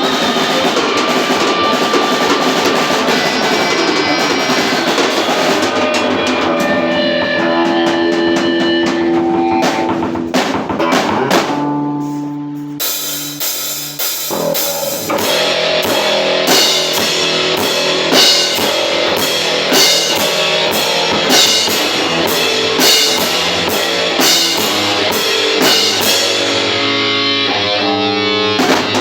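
Experimental metal band playing live at rehearsal: electric guitar and drum kit. About halfway the playing thins out to a few held notes, then the full band comes back in with heavy accents about every second and a half.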